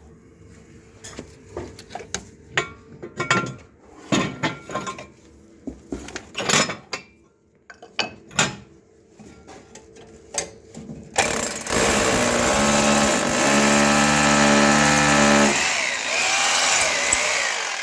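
Scattered knocks and clatter of tools and materials being handled. About eleven seconds in, a power drill runs loudly for roughly six seconds, its pitch wavering near the end, boring a hole for a wall dowel.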